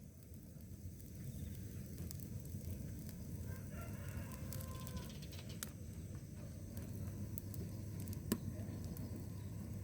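A rooster crowing once, about four seconds in, over a steady low rumble. Scattered sharp clicks run through it, the loudest one near the end.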